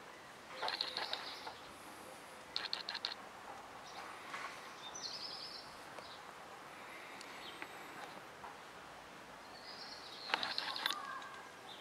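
Birds chirping in a few short, rapid bursts over a faint, steady outdoor background.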